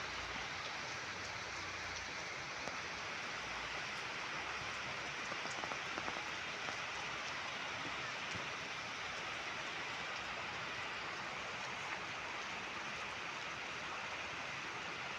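Steady rain falling in an even hiss, with a few faint ticks of drops.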